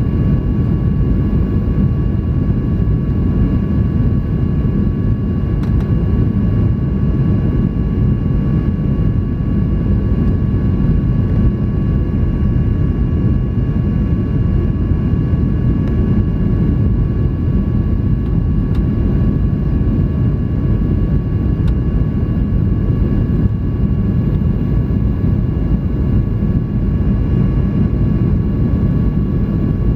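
Steady cabin roar inside a Boeing 737-800 in flight, with a few faint, steady high whine tones above it.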